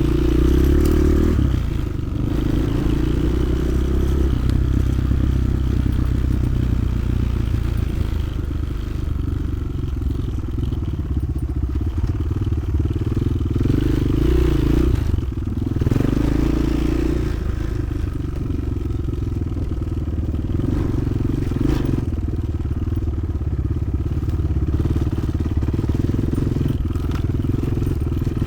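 Motoland XR 300 Lite enduro motorcycle engine running under way, its revs rising and falling with the throttle, most noticeably near the start and about halfway through.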